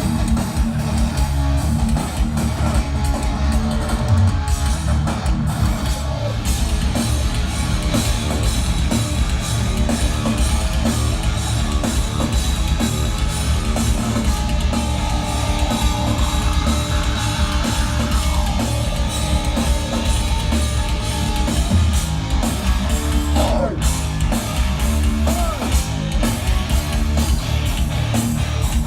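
Loud live heavy rock band playing: distorted electric guitars over a fast drum kit and bass.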